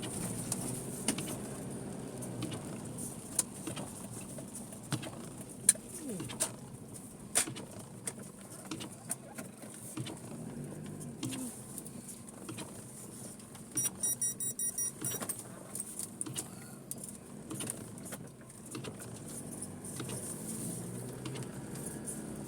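A car driving slowly over a rough, potholed road, heard from inside the cabin: a steady low running sound with scattered knocks and ticks. About two-thirds of the way through comes a quick run of high electronic beeps lasting about a second and a half.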